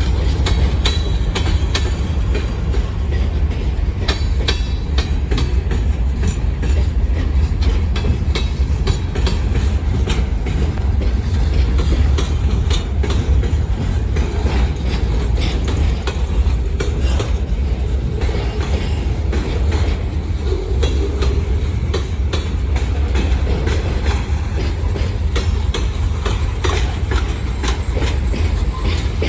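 Freight train rolling past: a steady heavy rumble with repeated clicking of wheels over the rail joints.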